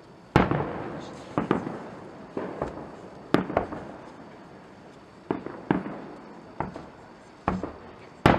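Aerial firework shells bursting: about a dozen sharp bangs at irregular intervals, some in quick pairs, each trailing off in echo. The loudest come about half a second in and just before the end.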